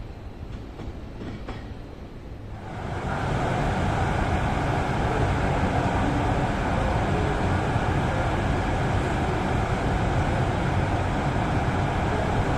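A train running on the track: a few faint wheel clicks at first, then a loud steady rumble that starts about three seconds in and holds.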